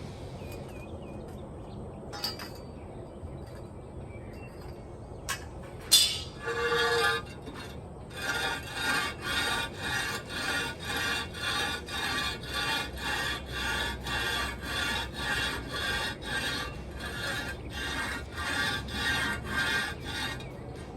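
A Ford Model A manifold's face being rubbed back and forth on rough concrete to sand it flat, giving even rasping scrapes about twice a second. A sharp knock about six seconds in and a short scrape come before the steady strokes. The sanding takes down the high spots of the warped mating face first.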